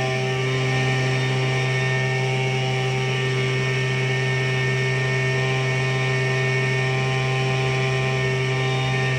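Tractor engine running steadily at an even speed, a constant low drone with no change in pitch or level.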